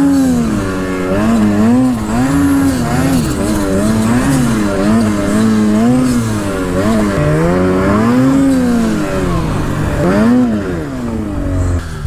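Snowmobile engine revving up and down repeatedly while riding, then easing off near the end.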